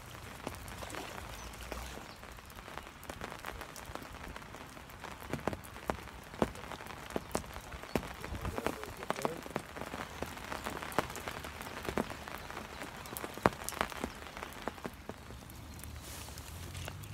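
Rain falling, a steady hiss with irregular sharp ticks of drops landing close to the microphone.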